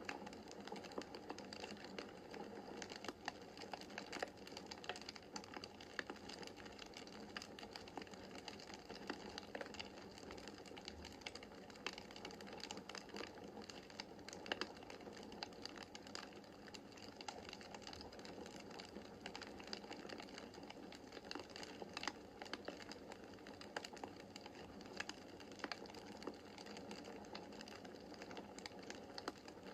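Wood fire in a fireplace crackling: a constant, irregular run of small pops and snaps over a soft steady hiss of the flames, with a few sharper snaps standing out.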